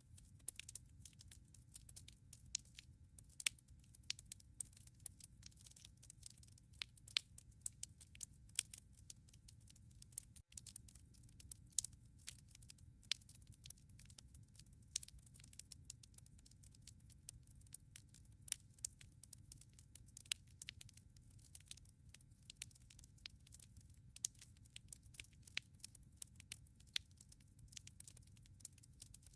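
Wood fire in a fireplace crackling: many irregular sharp pops and snaps from the burning logs over a faint steady low rumble of the flames.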